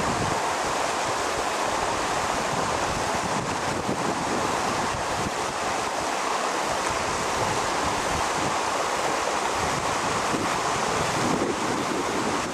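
Steady rush of the fast-flowing Teriberka river, with wind buffeting the microphone.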